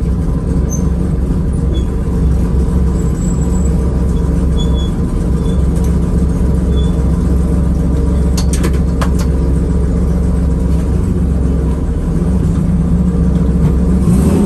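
Porsche 993's tuned 3.8-litre air-cooled flat-six running steadily at low revs, near idle, heard from inside the cabin as the car creeps along. A few sharp clicks come a little past halfway.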